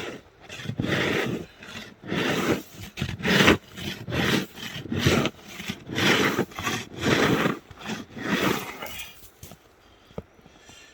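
A shovel scraping ice off the rails of a miniature railway track in repeated strokes, about one a second, which stop near the end.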